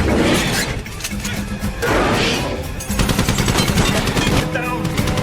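Action-movie car-chase soundtrack: music mixed with gunfire, turning into a rapid run of shots about three seconds in.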